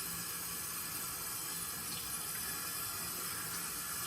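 Cold water running steadily from a tap into a bathroom sink, for a face rinse.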